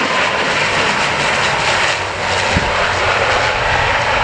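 ATR 72-200 turboprop airliner's engines running steadily, with a brief low thump about two and a half seconds in.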